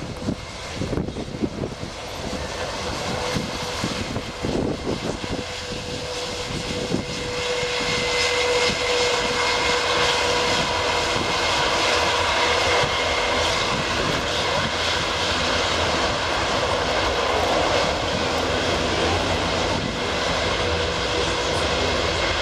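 Airbus A400M's four turboprop engines running as it taxis: a steady engine whine with held high tones. It grows louder over the first eight seconds or so, then holds steady.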